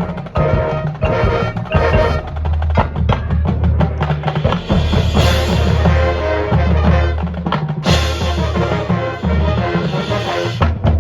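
Marching band playing, with the drumline's snare and bass drums striking throughout under the brass and wind melody, and a loud full-band entrance about eight seconds in.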